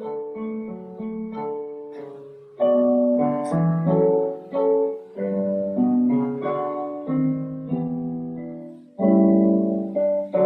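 Solo piano playing: chords struck and left to ring and fade, with a loud chord about two and a half seconds in and another near the end.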